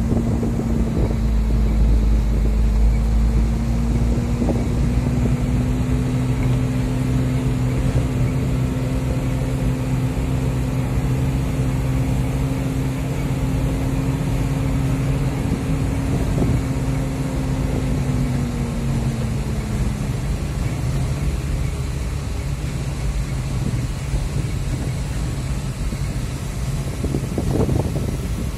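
UD Trucks Nissan Quester's diesel engine running as the loaded truck drives, with low road rumble; the engine note rises slightly, holds, then drops about two-thirds of the way in.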